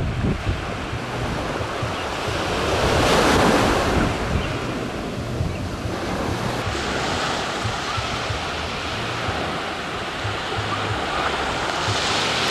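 Rough sea surf breaking on the shore in strong wind, with gusts buffeting the microphone. A wave swells and crashes about three seconds in, and another near the end.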